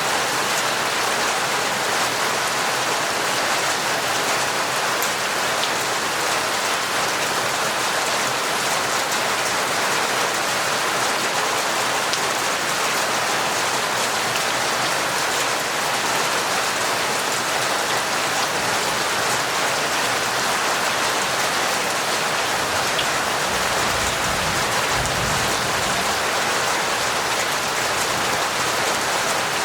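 Steady, dense torrential rain: a continuous hiss of many drops, with fine individual drop ticks.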